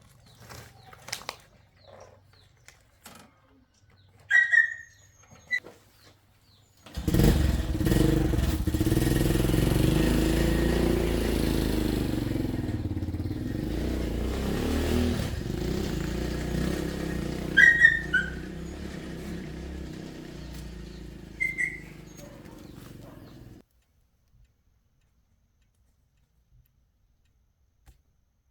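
A vehicle engine comes in abruptly about seven seconds in, runs steadily for about sixteen seconds and then cuts off suddenly. A few short high chirps sound over it.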